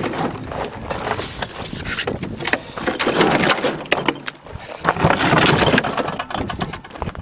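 Clattering, knocking and cracking of the bar fridge's broken plastic and metal as the fridge, wrecked by an airbag blast, is handled and pulled at. There are many sharp knocks with noisy scraping in between.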